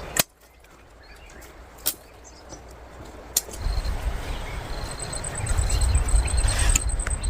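Outdoor forest ambience: a few sharp knocks, then a low rumble building up, with an insect, cricket-like, trilling in high, even pulses from about five seconds in.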